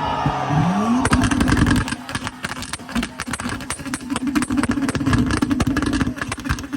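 Tuned car engine revved hard: the revs climb about half a second in, then are held high with rapid crackling exhaust pops and bangs.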